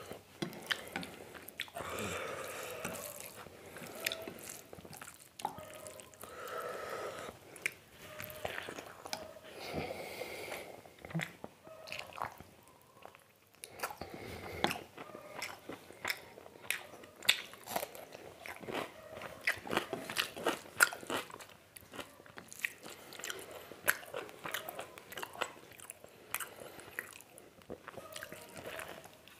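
Close-up chewing and biting of mutton curry and rice, with many short wet clicks and smacks from the mouth.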